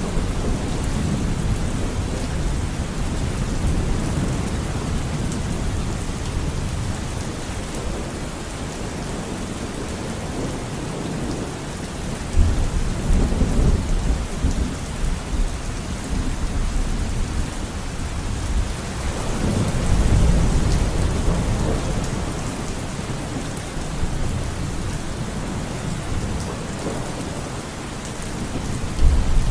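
Steady rain with rolling thunder. A deep thunder rumble breaks in suddenly about twelve seconds in, another swells around twenty seconds, and a third begins near the end.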